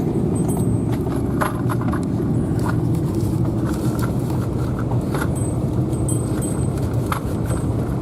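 Vehicle driving on a snowy dirt road: a steady low rumble of engine and tyres, with scattered clicks and knocks from the road surface or loose items rattling.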